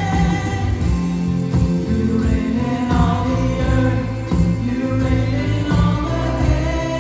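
Gospel worship song, with a choir of voices singing together over instrumental backing with a steady bass line.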